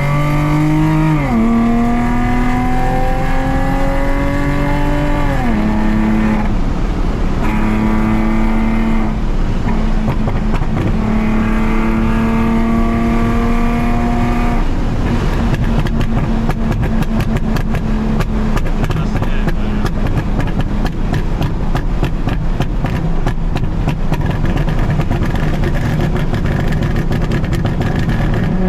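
Straight-piped Nissan 370Z's 3.7-litre V6 pulling hard, its note rising and then dropping at an upshift about 1.5 s in and again about 5.5 s in, then holding a steady drone. From about 15 s the clean tone gives way to a rough, crackling exhaust rumble full of rapid pops.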